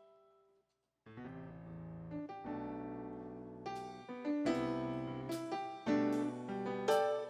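Keyboard playing piano chords as the introduction to a soulful song. A few held notes fade out, there is a short gap, then chords begin about a second in and grow fuller and louder around the middle.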